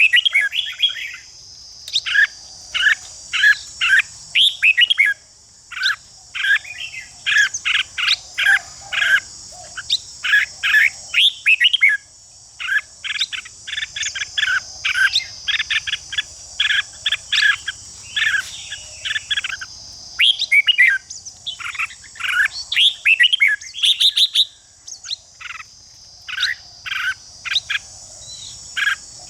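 Red-whiskered bulbuls singing in rapid bursts of short, overlapping phrases, the excited song of birds singing against each other. Behind them runs a steady high-pitched drone.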